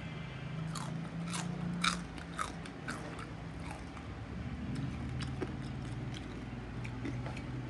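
Close-up crunching and chewing of crispy deep-fried pork knuckle (crispy pata) skin: a quick run of sharp crunches in the first three seconds, then lighter, sparser chewing.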